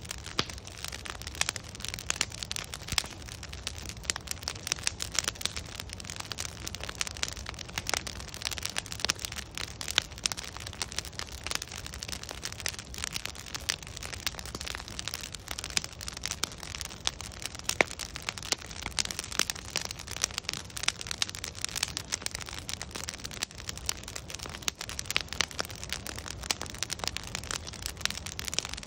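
Wood fire burning, with a steady low rumble and frequent irregular sharp crackles and pops from the burning logs.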